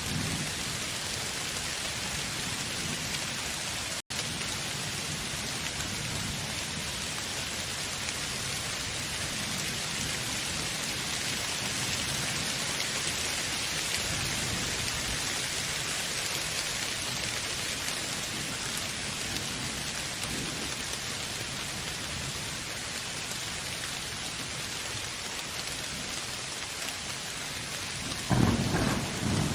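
Steady heavy rain falling, with a low rumble of thunder near the end. A split-second dropout in the sound about four seconds in.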